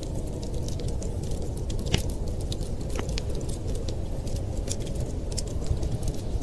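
Wood fire crackling in a fireplace: irregular sharp snaps and pops, a louder pop about two seconds in and another about a second later, over a steady low rumble.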